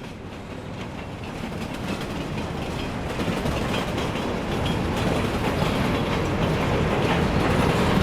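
Diesel freight train, an EMD GP38 and FP7A pair of locomotives with cars, approaching and growing steadily louder, its engines and wheels on the rails making a dense rumble.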